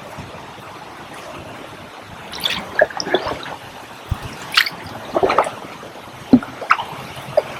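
Kayak paddle strokes: small irregular splashes and water dripping and trickling off the paddle blades, starting about two seconds in.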